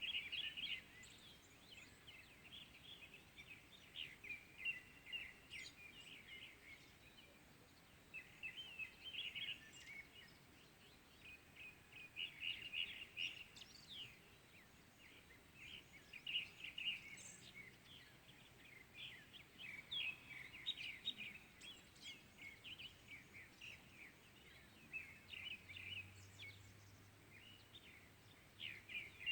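Faint birdsong at dawn: phrases of quick, high chirps come in short bursts every two to four seconds.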